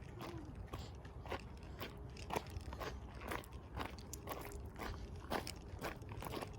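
Footsteps crunching on a forest trail, about two steps a second.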